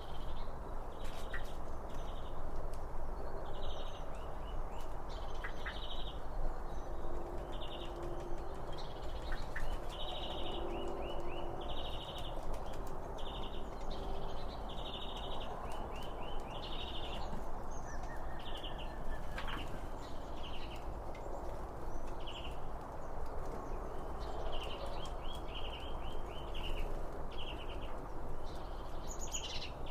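A bird calling over and over in short trilled chirps, about one a second, over a steady rushing background.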